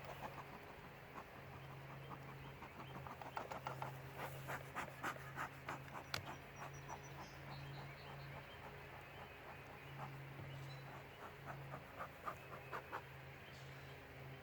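Bee smoker's bellows puffing smoke into a beehive, breathy puffs with clicks and rustles of handling about three to seven seconds in and again near the end, over a low hum that comes and goes.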